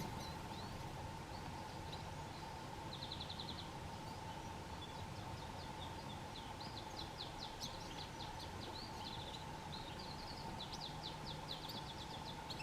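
Wild Atlantic canaries twittering: short chirps and quick buzzy trills, busier in the second half, over a steady faint hum.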